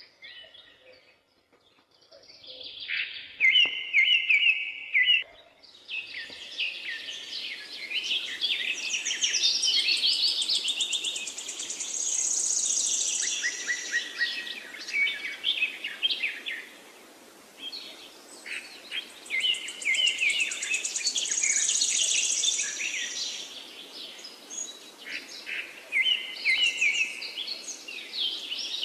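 Several songbirds singing in the forest: overlapping chirps, trills and whistled phrases, sparse at first and becoming a busy chorus over a steady hiss after about six seconds.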